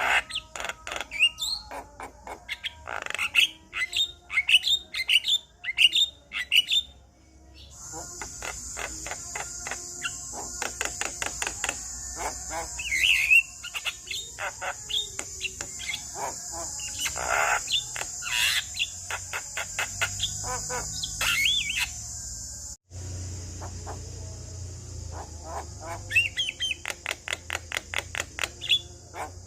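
Male Javan myna (jalak kebo) singing a rapid run of chattering chirps, whistles and squawks. From about eight seconds a steady high hiss runs under the song, dropping out for an instant a little before the last quarter.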